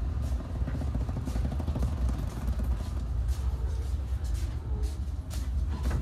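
Steady low rumble inside a Saphir Odoriko express car (JR East E261 series), with scattered light clicks.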